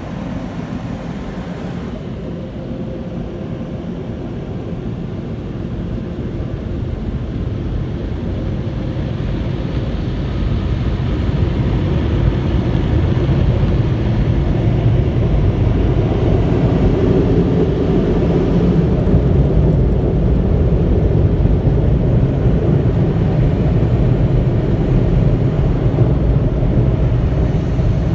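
Automatic car wash tunnel equipment running: a steady low rushing roar that grows louder over the first dozen seconds, then holds.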